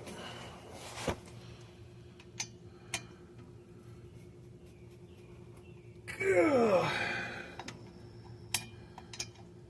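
A man's groan dropping in pitch about six seconds in, as if straining against a tight driveshaft bolt, with a few light clicks of tools before and after. A faint steady hum runs underneath.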